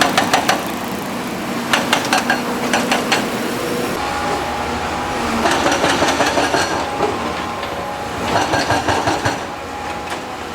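Excavator engine running steadily, with repeated bursts of rapid metallic clanking and rattling, each lasting a second or so.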